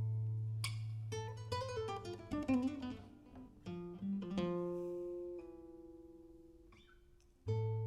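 Solo acoustic guitar playing an instrumental intro: plucked notes with a descending run, then a held chord left to ring and fade. A new chord is struck near the end.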